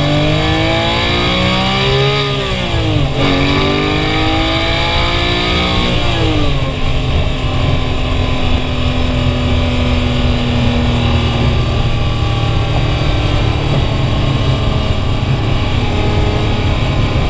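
Porsche 991.2 GT3's 4.0-litre naturally aspirated flat-six accelerating hard. Revs climb, fall sharply at an upshift about three seconds in, climb again and fall at a second shift near six seconds. The engine then settles into a steady, slowly easing cruise.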